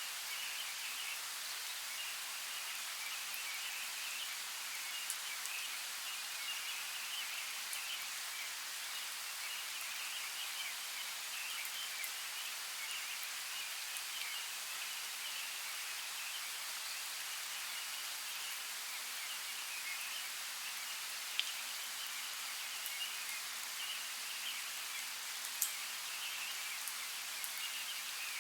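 Steady rain hiss, with a few sharp single drop clicks standing out, two of them louder in the second half.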